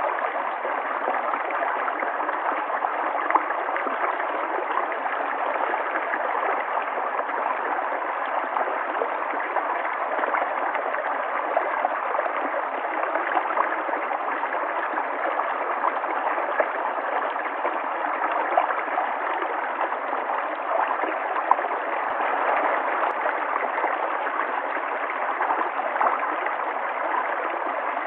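River water flowing steadily, a continuous rush with small splashes and gurgles scattered through it.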